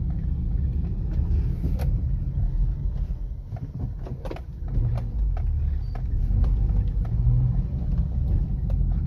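Toyota Corolla XLI running on LPG, heard from inside the cabin: a steady low engine and road rumble as the car pulls away in a low gear after a speed bump, growing louder in the second half, with a couple of sharp clicks.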